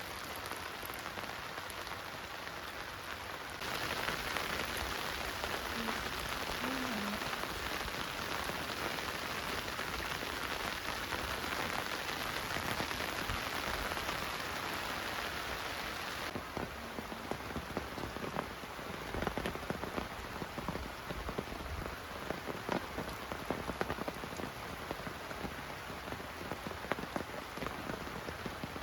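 Rain falling steadily. The sound steps up about four seconds in. From about sixteen seconds in, separate drops stand out as distinct taps.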